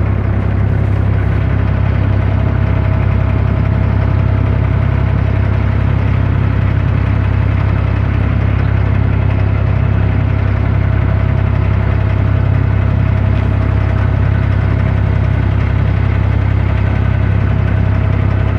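An abra's inboard diesel engine running steadily, heard from on board as a loud, even low drone.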